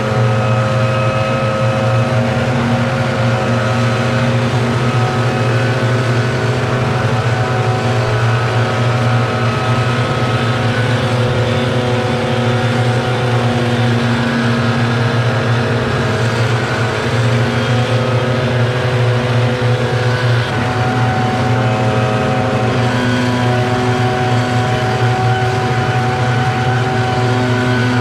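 Gas-powered lawn equipment engines, more than one at once, running steadily during a leaf cleanup, their pitches shifting a little now and then.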